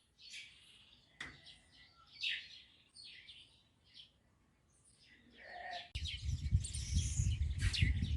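Birds chirping, short scattered calls over a quiet background. About six seconds in, a louder low rumbling noise starts suddenly, and the chirping goes on above it.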